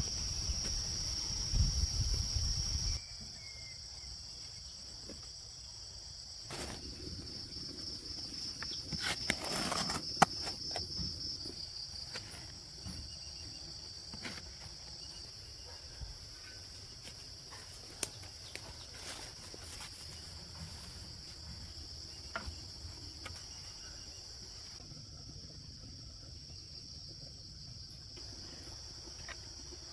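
Insects trilling steadily in a high, continuous buzz, with a low rumbling noise for the first three seconds and scattered clicks and knocks, busiest about seven to twelve seconds in.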